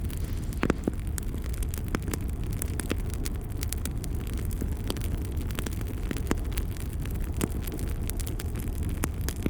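Wood fire burning in a fireplace, crackling with frequent sharp irregular pops over a steady low rumble of flame.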